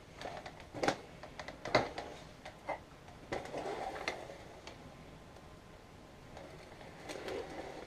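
Plastic parts of a Samsung upright vacuum being handled: a few sharp clicks and knocks, with a short rustle about three seconds in.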